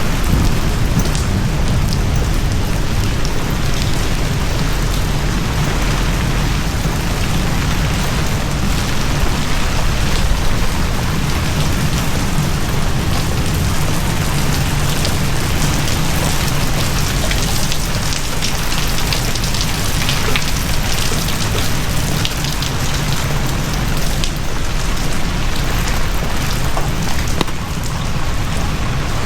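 Heavy rain falling steadily: a dense, even hiss of drops with a constant low rumble underneath.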